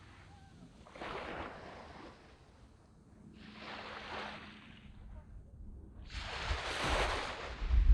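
Small sea waves washing up and draining back on a sand beach, coming in surges: a weak one about a second in, another around the middle, and a louder one from about six seconds. A low rumble rises under the last surge near the end.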